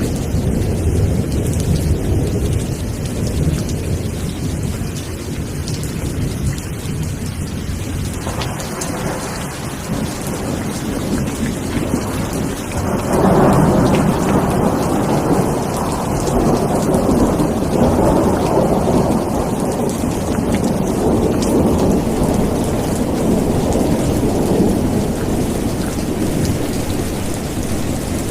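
Steady heavy rain with thunder rumbling under it: a deep rumble at first, then a louder roll swelling in about halfway through and carrying on.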